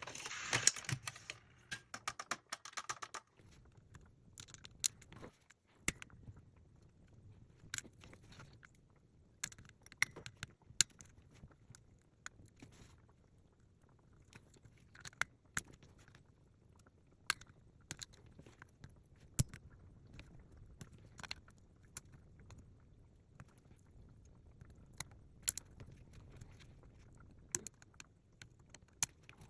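Small parts being handled: irregular sharp clicks and taps. A scraping rustle runs through the first three seconds.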